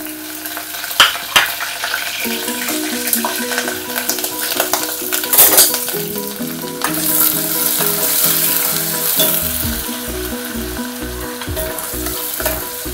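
Sliced onions and curry leaves sizzling in hot oil in a stainless-steel pot, a steady frying hiss with a few sharp pops about a second in and again near the middle. The onions are frying down until well browned.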